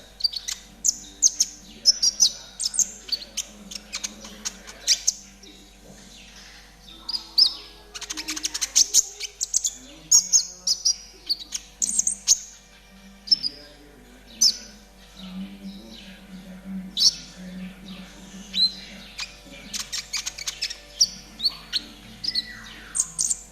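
Kolibri ninja (a sunbird) singing in the fast 'trotol' style: a rapid string of short, high chirps and sharp ticks, with a quick rattling run about eight seconds in.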